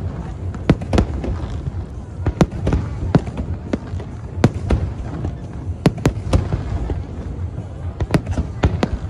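Aerial fireworks display: shells bursting in an irregular string of a dozen or more sharp bangs over a continuous low rumble.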